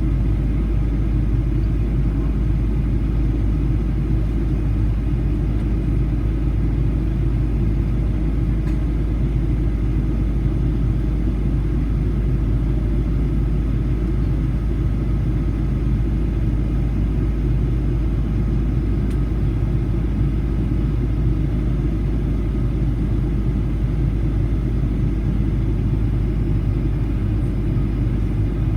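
Steady low rumble of cabin noise, engines and airflow, heard from a seat inside a Boeing 737-800 airliner, even and unchanging throughout.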